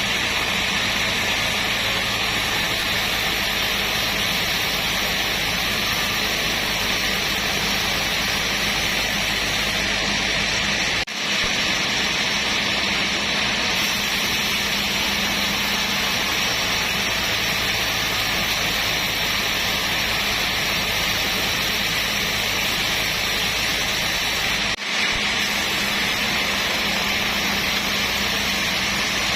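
Sawmill machinery running steadily: a constant motor hum under a loud, even hiss. It breaks off for a split second twice, about eleven seconds in and again near twenty-five seconds.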